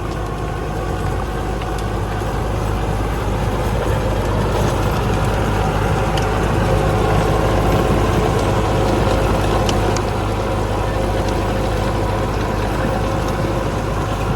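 Sonalika DI 750 Sikander tractor's diesel engine running steadily, growing a little louder about four seconds in and easing back at about ten seconds.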